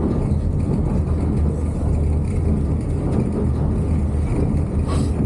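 Steady low rumble of a White Pass railway passenger train rolling along the track, heard from aboard, with one short knock near the end.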